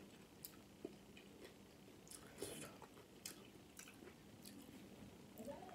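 A person chewing a mouthful of taco: faint, scattered soft clicks and smacks.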